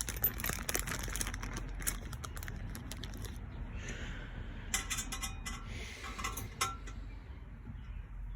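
Metal hand tools and bolts clinking and rattling against engine parts as bolts are worked in: a quick run of small clicks at the start, then a few sharper clinks in the second half.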